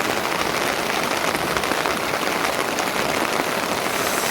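Steady rain falling: a dense, even hiss of many small drops.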